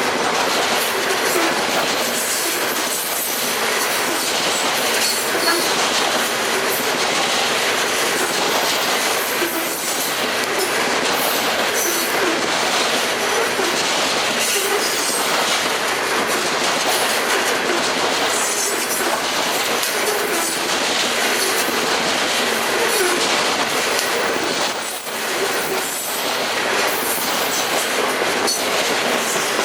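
Freight train cars rolling past at close range: a steady clatter of wheels over the rail joints, with some wheel squeal.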